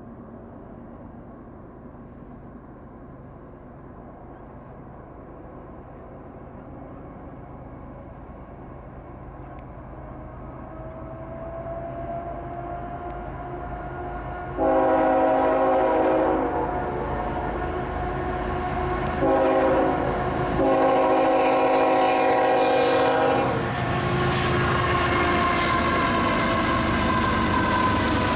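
Kansas City Southern freight train's diesel locomotives approaching, their low engine rumble slowly growing louder. About halfway through, the lead locomotive sounds its horn in three blasts: long, short, long. The locomotives then pass close by with the engines running loud.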